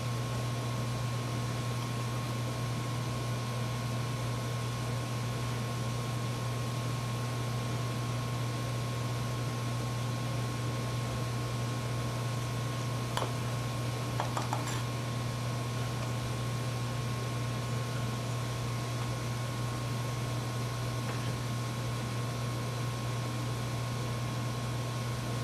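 Steady hum and fan-like whirr of electrical bench equipment, with a thin steady high tone over it and a few faint small clicks about halfway through.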